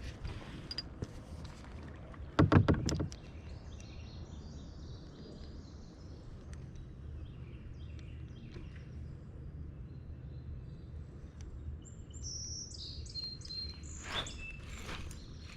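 Birds chirping and singing, with a steady low rumble of water and wind underneath. About two and a half seconds in, a short burst of several knocks is the loudest sound. The chirps grow busier near the end.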